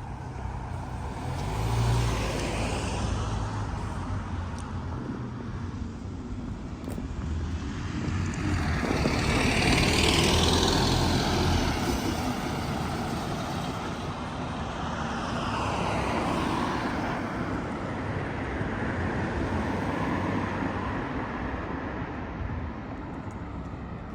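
Road traffic: a low engine hum with several vehicles passing one after another, their tyre noise swelling and fading, the loudest pass about ten seconds in.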